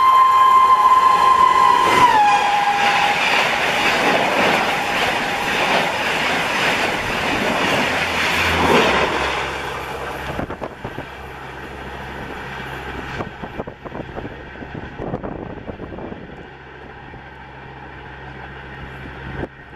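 Gatimaan Express's electric locomotive passing at high speed (about 160 km/h) with its horn blowing; the horn drops in pitch about two seconds in as the locomotive goes by. The loud rush and wheel clatter of the coaches follows, then falls away to a lower rumble and wind after about ten seconds as the train recedes.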